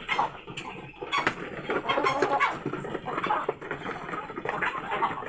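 Chickens clucking and moving about, with scattered short clicks and rustles.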